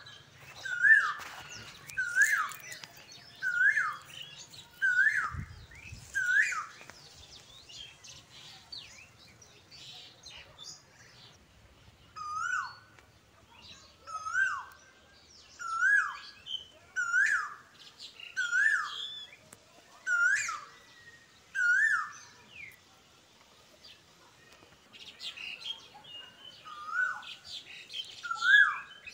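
A bird chirping: one short hooked call repeated about once a second in runs, with fainter, higher chirps behind it.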